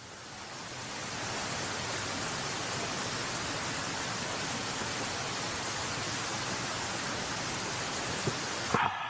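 Steady rushing noise, even and unpitched like running water or rain, fading in over the first second and then holding level, with a brief ringing clink near the end.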